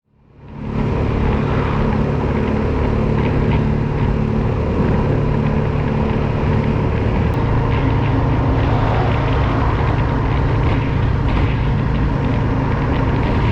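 Motorcycle engine running at a steady speed with wind rush over it, fading in during the first second.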